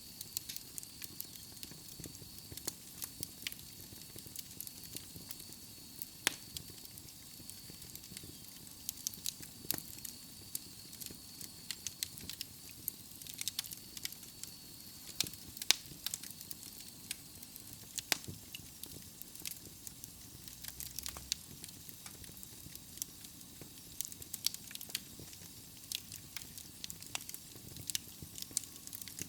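Wood logs burning in a fireplace: irregular sharp crackles and pops, some much louder than others, over a soft steady hiss. A faint high thin whistle runs through the first half and then fades out.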